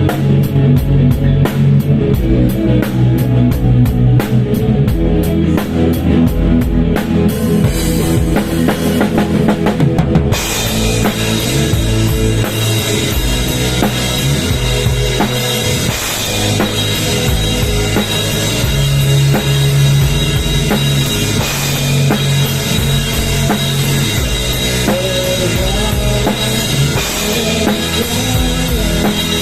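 Loud rock-style music with a drum kit and heavy bass drum played through a big sound system on a sound check. About ten seconds in, cymbals and a much brighter treble come in.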